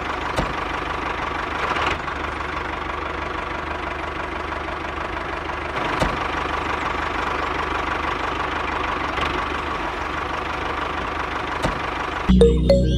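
Small motor of a miniature DIY model tractor running steadily, with a few faint clicks. Loud music with a heavy bass cuts in near the end.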